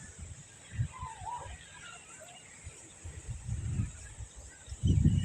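Aseel chickens calling faintly, with one call that rises and falls about a second in, and a few thin chirps. Low rumbling noise comes twice, the louder one near the end.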